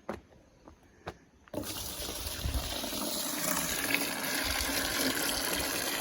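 A couple of faint knocks, then about a second and a half in water starts gushing steadily, filling a bucket from a water tank.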